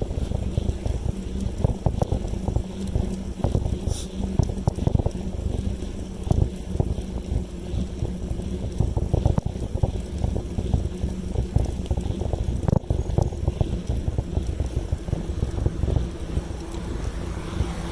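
Wind buffeting the microphone on a moving bicycle: a steady low rumble with irregular gusts.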